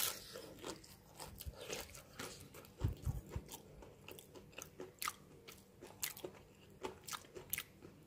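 A person chewing a crisp, breadcrumb-coated fried chicken nugget: faint, irregular crunching and crackling, with a low thump about three seconds in.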